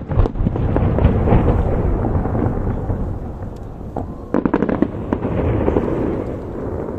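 Fireworks display: aerial shells bursting in dense, overlapping booms, with a quick run of sharp bangs about four and a half seconds in.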